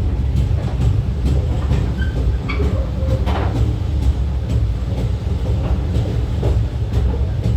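Steam train of A2 class locomotive 986 rolling along the track: a steady heavy rumble with scattered clicks of wheels over rail joints and a few brief, faint squeals.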